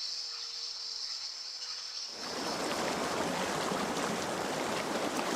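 A steady, high-pitched insect chorus. About two seconds in, the rushing and babbling of a forest stream comes in and takes over.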